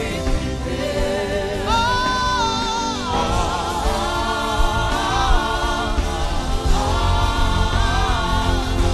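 A man humming a slow gospel melody in long held notes that swell and glide, with vibrato, over a steady sustained accompaniment with a continuous bass.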